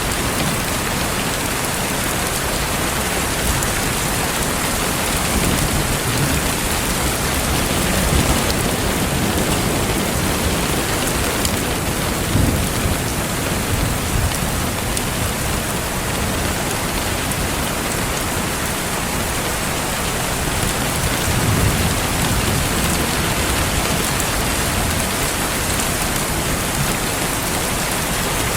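Steady rain pattering down, with low rumbles of distant thunder now and then and a faint crackle of a wood fire.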